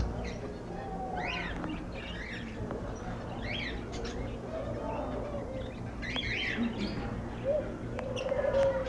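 Several birds chirping: short, high calls that rise and fall, repeated every second or so. A lower call comes in near the end.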